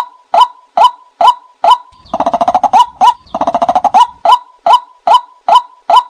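Recorded watercock calls played as a hunting lure: a loud repeated hollow note about twice a second, broken by two quick stuttering runs of calls around the middle.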